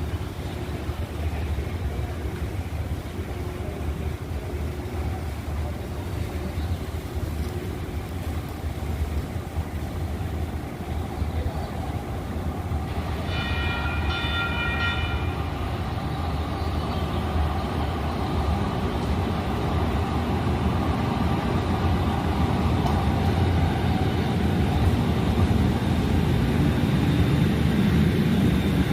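Light rail train running, its rumble growing steadily louder as it approaches, with a short horn toot about halfway through.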